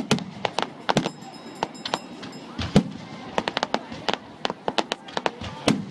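Fireworks going off in a rapid, irregular string of sharp bangs and crackles. The loudest crack comes about three seconds in.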